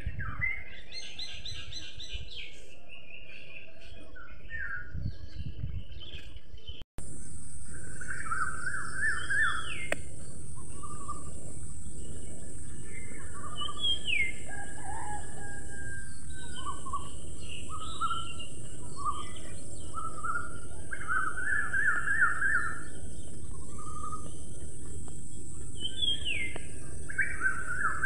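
Several birds chirping and singing in short trills and calls, over a low background rush. The sound cuts out for an instant about seven seconds in, after which a steady high-pitched hiss joins the birdsong.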